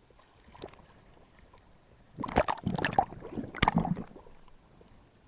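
Water splashing and sloshing, loud and irregular for about two seconds in the middle, then dying away.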